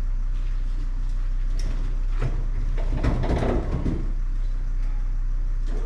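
A vehicle engine running steadily at idle, with a cluster of knocks and rattles about two to three and a half seconds in.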